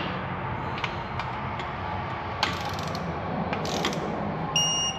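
Torque wrench ratcheting in irregular clicks as a bolt on a Ford 3.5 EcoBoost engine is tightened. Near the end comes a short, steady electronic beep, the digital torque wrench signalling that the set torque has been reached.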